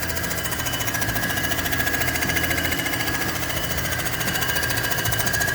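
Comec ACF 200 surfacing machine milling the gasket face of a cast-iron AMC 360 cylinder head. Its cutter head runs steadily with a rapid, even pulsing and a steady high whine as it makes a light finishing pass to flatten the deck surface.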